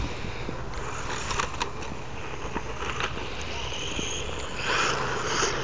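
1/18-scale electric RC stadium truck running on a 3s LiPo, its small motor and tyres scrabbling over rough ground, with scattered clicks and a louder scrape about five seconds in.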